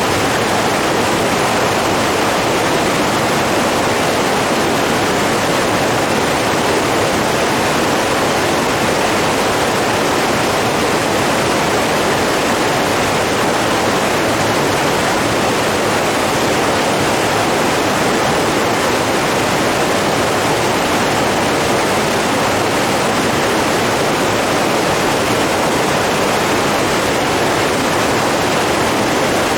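Steady rushing of flowing water, an even and unbroken sound.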